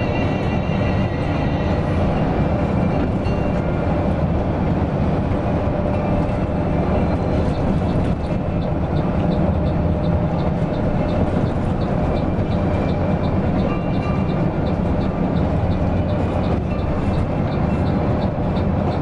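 Steady engine and road rumble of a coach bus under way. From about 8 seconds in, a light ticking repeats about twice a second.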